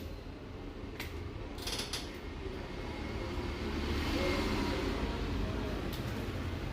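Faint handling noise: a few sharp clicks and creaks over a low steady rumble.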